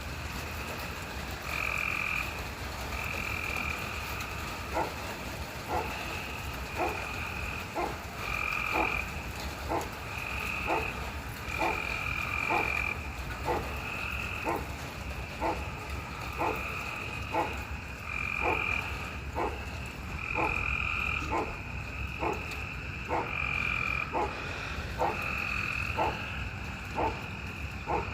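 A chorus of frogs calling: one kind repeats short high calls about once a second, and about five seconds in a second kind joins with short, lower clicking calls at a little over one a second.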